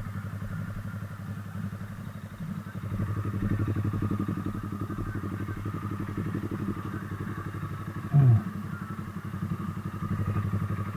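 Z200S/Z200X motorcycle engine running steadily with its firing pulses plain, and a short loud falling tone about eight seconds in.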